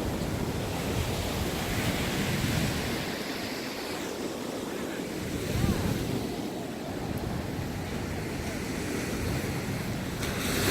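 Ocean surf washing in and out, swelling and easing, with a surge building near the end. Wind buffets the microphone throughout.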